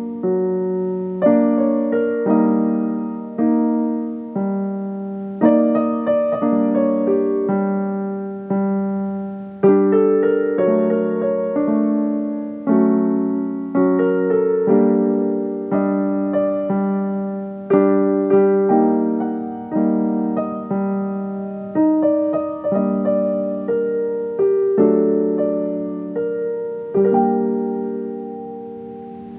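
Slow solo piano music: single notes and chords struck about once a second, each ringing and fading, dying away near the end.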